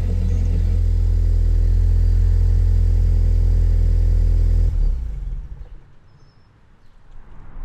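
2016 Ford Focus ST's turbocharged four-cylinder, fitted with a COBB intake and exhaust, running loud at steady revs. The sound drops away quickly about four and a half seconds in, as the throttle is let off, and a quieter engine sound picks up again near the end.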